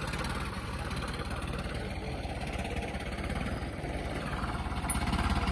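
Tractor diesel engine running steadily, growing slightly louder near the end.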